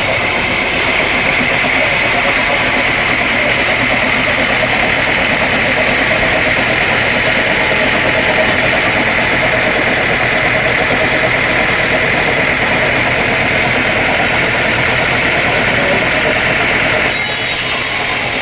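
Sawmill machinery running steadily, a continuous engine-like drone with a high whine. The sound shifts about a second in and again near the end.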